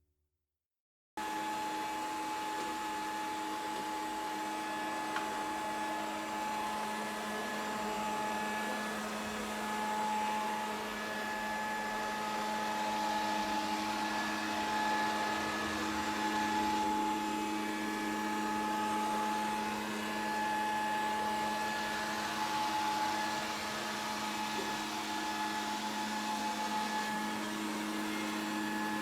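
Grundig VCR 2131 robot vacuum running steadily: a constant motor hum with a high whine over the hiss of suction. It starts abruptly about a second in, after a moment of silence.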